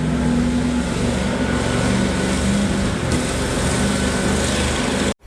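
Heavy truck engine running steadily with broad mechanical and tyre noise. It cuts off suddenly just before the end.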